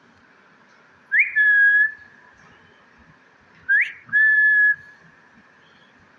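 Whistled call given twice, about two and a half seconds apart. Each is a quick upward swoop followed by a clear, steady held note.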